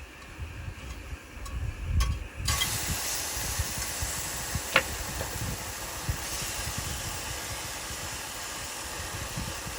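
A steady hiss that starts abruptly about two and a half seconds in and holds, over an uneven low rumble.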